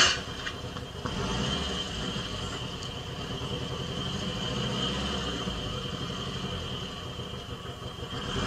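Soundtrack of a horror clip: a low, steady rumble with a thin high whine over it, after a sharp click right at the start.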